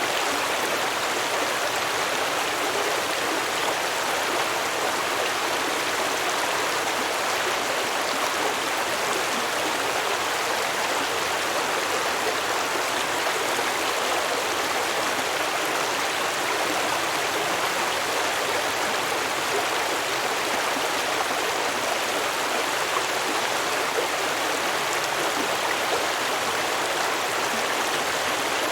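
Stream water flowing and babbling over rocks, a steady rushing with no breaks.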